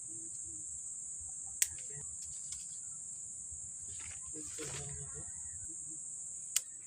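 Insects droning steadily in a single high pitch, with two sharp clicks about five seconds apart.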